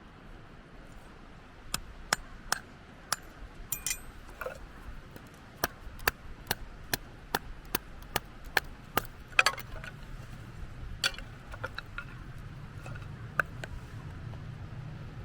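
Firewood being split by hand: a quick run of sharp wooden knocks, about two a second, that thins out to a couple of single knocks near the end.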